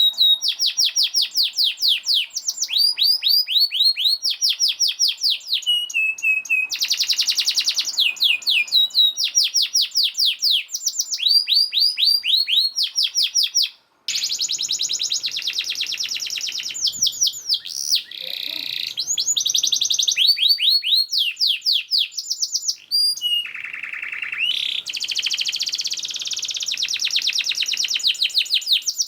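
Domestic canary singing a fast, tightly packed song: long rapid trills of quick falling notes, phrase after phrase, with some buzzier rolls mixed in. The song breaks off for a moment about halfway through.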